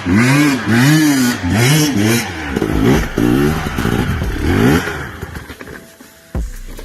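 Off-road vehicle engine revved up and down over and over, its pitch rising and falling about twice a second. The revs then come in quicker rising sweeps and fade away about five seconds in, before a sudden cut.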